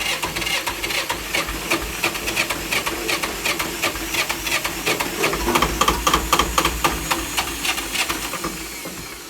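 Two-cylinder diesel of an old Jiangxi tractor being turned over on its starter motor, with a fast, even clatter of cranking strokes. It grows louder about halfway through and dies away near the end without running: a stale engine that has not been started in a while.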